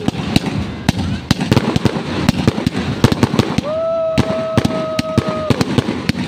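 Fireworks going off in a rapid, irregular string of sharp crackling pops. In the middle a steady whistle-like tone is held for about two seconds.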